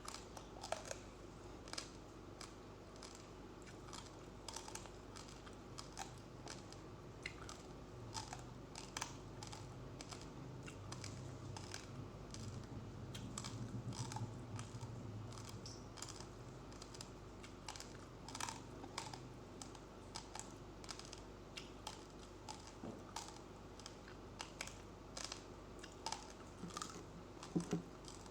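Close-up chewing of raw, uncooked rice grains: many small, sharp crunches at an uneven pace, a few a second.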